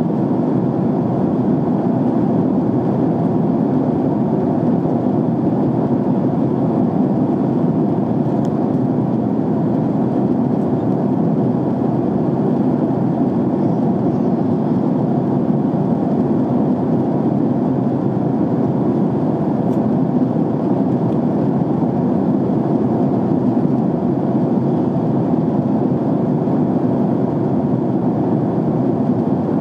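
Steady cabin noise inside a jet airliner in flight: the constant hum of the engines and the rush of air along the fuselage, even in level, with no changes.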